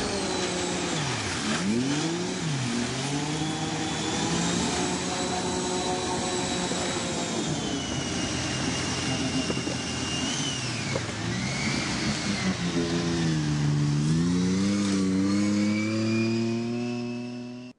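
Amphibious car's engine running under throttle, its pitch dipping and rising several times in the first few seconds and climbing again near the end, with a thin high whine above it.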